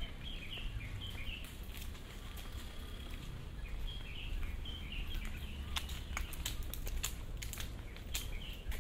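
Small birds chirping in short repeated calls, over a steady low rumble. Sharp clicks are scattered through it, thicker in the second half.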